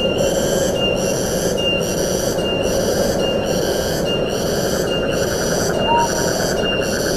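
Tropical forest ambience: a steady rush of wind under a high, shrill insect call that pulses a little more than once a second, with a brief bird note about six seconds in.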